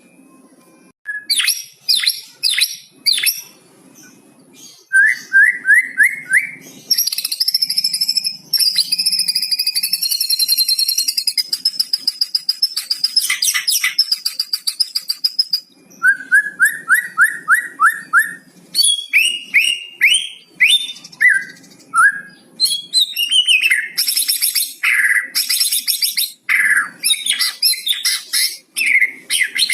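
White-rumped shama (murai batu) singing a long, varied song with mimicked cucak cungkok phrases. Quick runs of short rising whistles alternate with a long, high, buzzy trill of several seconds and many sharp chip notes.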